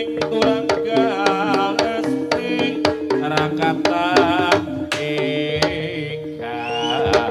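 Jaranan ensemble music playing live: quick, sharp drum strokes over two long, steady held tones, with a wavering melody line above.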